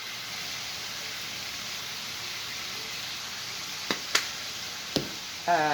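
Peppers, onions and meat frying in a pan with a steady sizzle. A few sharp clicks come about four and five seconds in.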